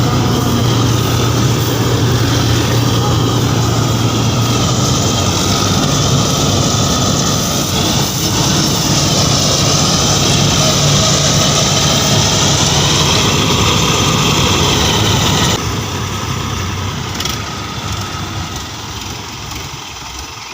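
Diesel engine of farm machinery running steadily under load. The level drops suddenly about fifteen seconds in, and the engine sound carries on more quietly after that.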